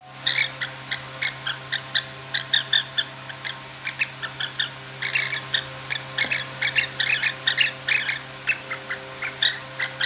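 Female cockatiel giving its mating call: continuous runs of short, high chirps, several a second, over a faint steady hum.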